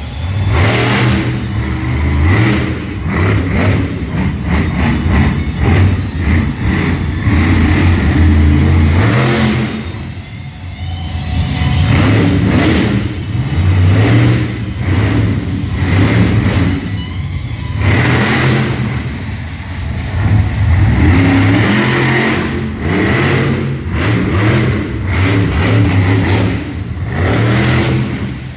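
Monster truck engine revving hard over and over, the pitch climbing and dropping with brief lulls between bursts of throttle.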